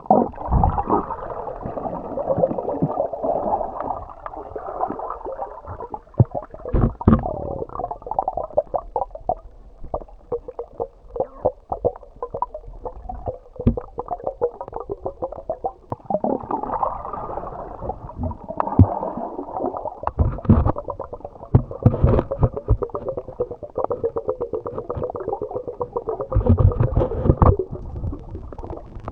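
Muffled underwater sound picked up through a camera's waterproof housing: gurgling and sloshing water with a steady run of small clicks and a few low thumps.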